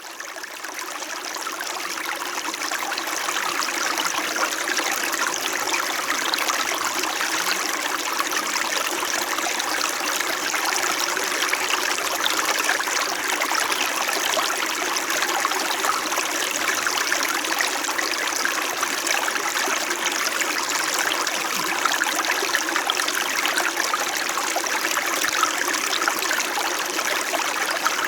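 Small mountain stream flowing steadily over rocks, a continuous gentle babbling and trickling, fading in over the first couple of seconds.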